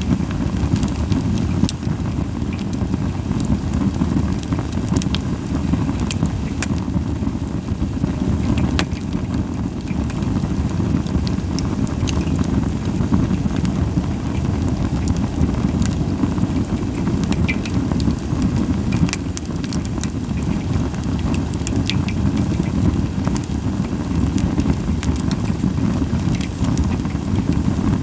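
Japanese white pine logs burning in a campfire, with scattered sharp crackles and pops over a steady low rumble.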